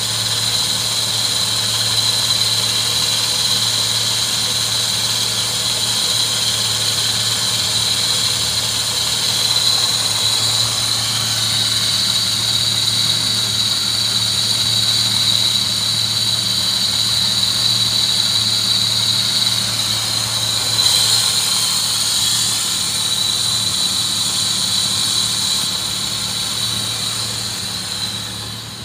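Holden Commodore's 3.8-litre V6 engine idling steadily, with a steady high-pitched whine over the idle.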